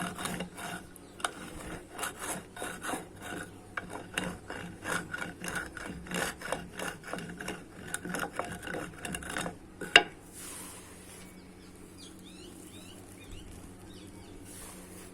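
Dry white clay crunching as it is crushed on a floor: a rapid run of crisp crunches, several a second, ending in one loud sharp crack about ten seconds in. After that only a quiet steady background with a few faint high chirps.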